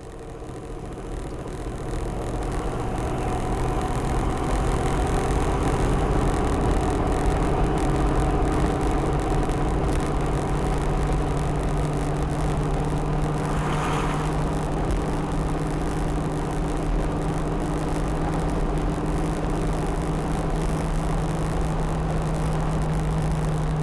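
A 6.5-litre turbo-diesel V8, swapped into a Toyota Land Cruiser 80 Series, cruising at highway speed: a steady engine drone over road and wind noise, swelling over the first few seconds. There is a brief whoosh about fourteen seconds in.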